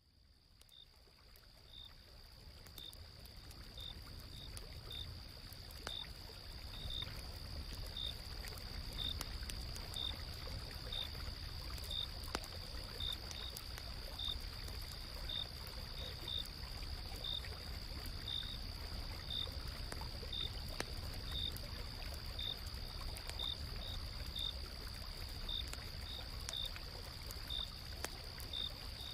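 Autumn-night nature ambience: insects trilling steadily at a high pitch, with another insect chirping about once or twice a second, over a low rumble of flowing river water and scattered crackles of a campfire. It fades in over the first few seconds.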